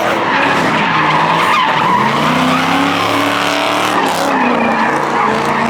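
A car's engine revving hard while its tyres spin and squeal in a burnout or donut. The engine's pitch climbs through the first half, then drops and picks up again near the end.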